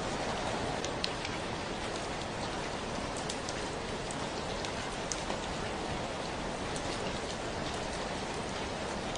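Steady rain falling, a dense even hiss with scattered sharper drips and patters.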